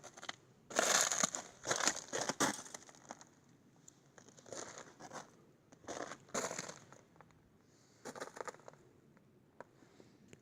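Irregular bursts of crunching and rustling, loudest and densest in the first few seconds, then a few shorter clusters.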